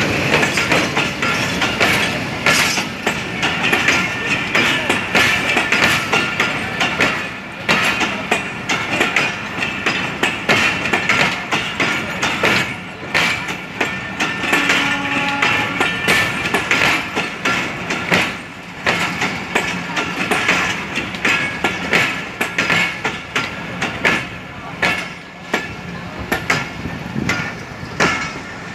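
Passenger coaches rolling past close by, their wheels clattering over the rail joints in a fast, uneven clickety-clack.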